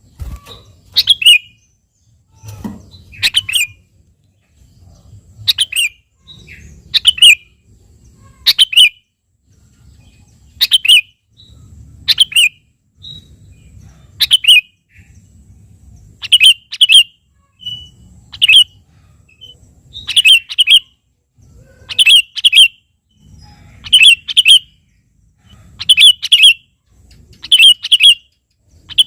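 Sooty-headed bulbul (kutilang) calling over and over: short, sharp chirping phrases every one to two seconds, turning into quick pairs of notes in the second half.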